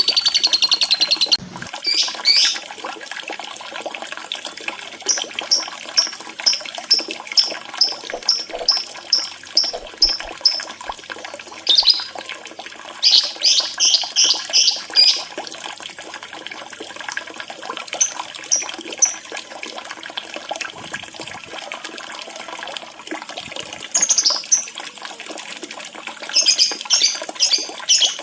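Lovebird chirps and calls over a steady trickle of running water. A dense, fast trill at the start cuts off about a second and a half in. Short high chirps follow: a run of about a dozen evenly spaced notes, then louder clusters of calls.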